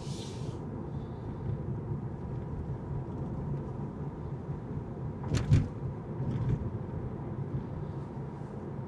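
Steady low rumble of a car driving along a city street, with a sharp knock a little past the middle and a softer one about a second later.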